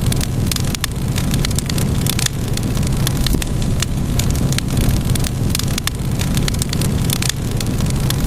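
Wood fire crackling: irregular sharp pops and snaps, several a second, over a steady low rumble of burning flames.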